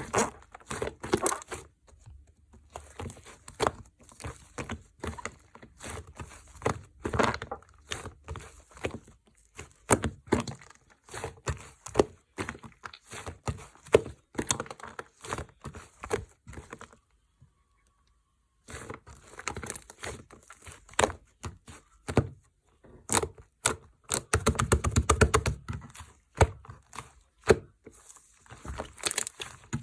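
Foam slime being squished and worked by hand, giving dense runs of small pops, crackles and clicks. There is a brief total silence about two-thirds of the way through, and a fast, dense burst of popping a few seconds after it.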